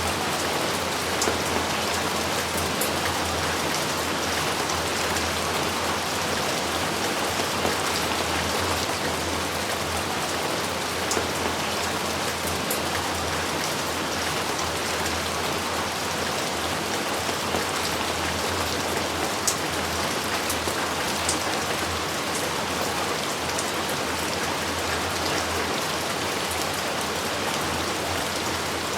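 Steady rain falling, a dense even hiss with scattered sharper drop impacts.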